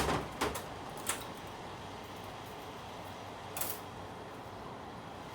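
A few light clicks of metal parts being handled, three short taps spread through a few seconds, as the rear main bearing is worked off an air-cooled Volkswagen crankshaft. Faint steady background hiss between them.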